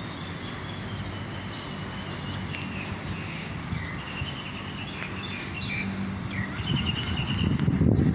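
Birds chirping and whistling in short calls over a steady low background rumble. A louder low rumble builds near the end.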